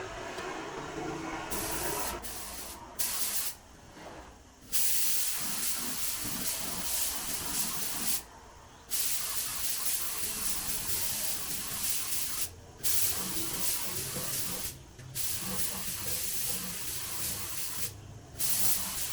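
Spray paint hissing in repeated bursts of a few seconds each, stopping briefly between passes.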